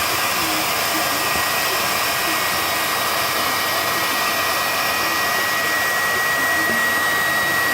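Electric air pump inflating an air mattress: a steady blowing whir with a thin, constant high whine.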